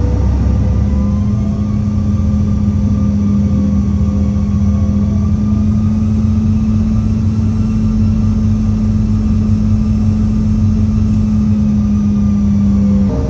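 Airliner jet engines running, heard from inside the cabin: a steady, loud engine sound with a constant hum.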